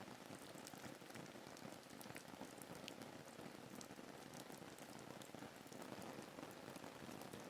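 Faint, steady rain ambience: an even hiss of rainfall with scattered individual drops ticking.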